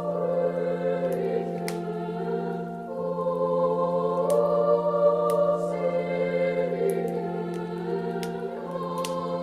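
A Christmas song sung by a choir over organ, in slow held chords, with a few sharp crackles from a log fire scattered through it.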